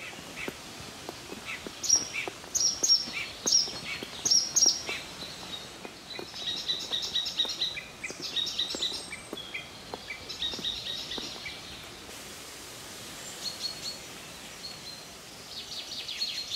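Songbirds singing: a string of short, high chirped notes, followed by several fast trills of rapid notes repeated every second or two.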